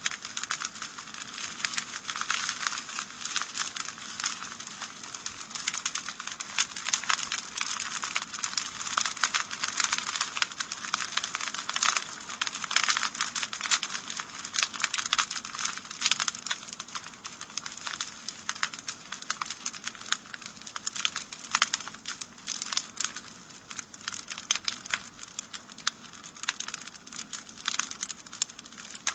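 Wood fire burning in a fireplace, with a constant stream of small irregular crackles and pops over a soft hiss.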